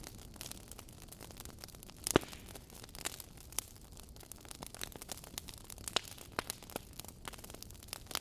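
Wood fire crackling in a fireplace: irregular snaps and pops over a soft hiss, with one loud pop about two seconds in.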